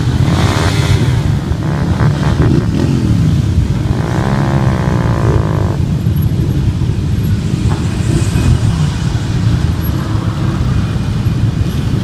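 Several motorcycle engines running as bikes ride in. One engine's note rises and then falls between about four and six seconds in.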